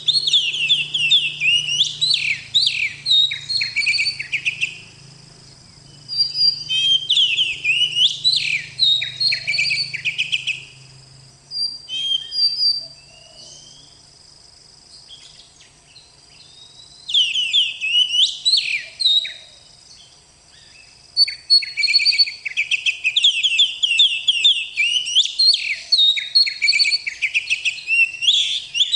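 Oriental magpie-robin (kacer) singing loud, rapid runs of whistled and chattering notes in long phrases separated by short pauses.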